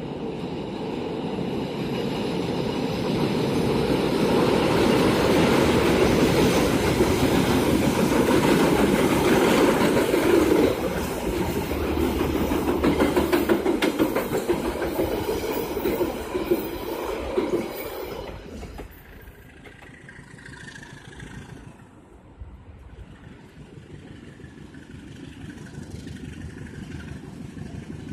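A GE CC201 diesel-electric locomotive and its passenger coaches rumbling across a steel truss railway bridge, growing louder as the train nears. Later the coach wheels clatter rapidly over the rail joints, then the sound drops suddenly about two-thirds of the way through to a faint, steady distant engine drone.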